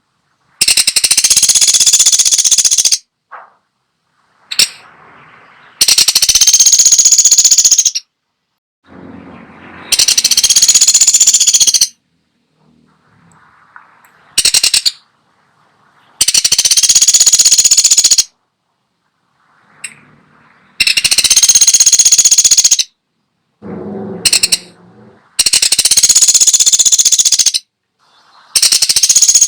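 Pelatuk sampit woodpecker giving loud, very rapid rattling trills, each about two seconds long, repeated about every four to five seconds, with shorter single bursts between some of them.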